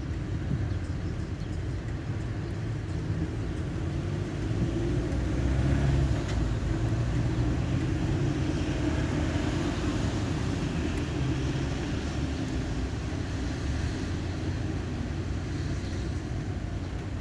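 Thunder rumbling, a long low roll that swells about six seconds in and then slowly fades.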